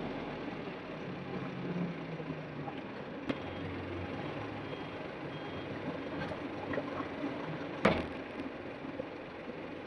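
Truck engines running in steady traffic noise, with faint intermittent beeping and one sharp knock about eight seconds in.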